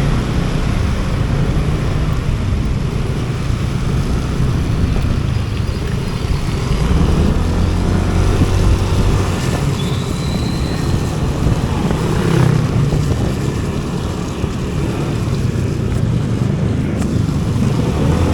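Rain-swollen river rushing steadily, mixed with wind buffeting the microphone, while a motor vehicle passes about midway.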